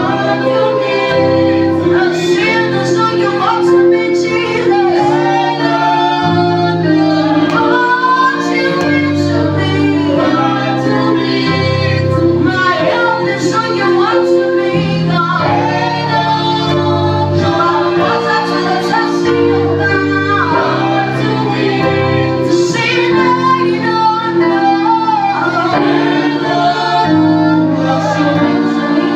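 Gospel praise-and-worship song: a woman singing lead with backing vocals over sustained keyboard chords and a bass line that changes every second or two.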